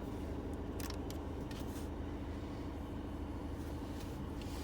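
Volkswagen Eos 2.0 TDI diesel engine idling with a steady low hum, heard from inside the cabin, with a few faint clicks.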